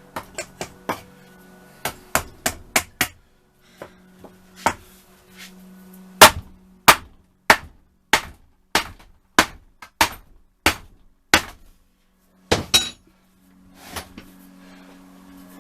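Heavy hammer blows driving the rusted, seized cylinder barrels off a Yamaha FZR1000 engine. A few light taps come first, then a steady run of hard blows about one every 0.6 seconds, and two last blows near the end.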